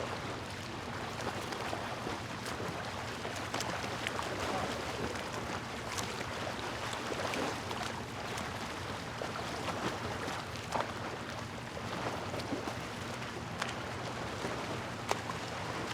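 Steady rushing noise with scattered faint clicks.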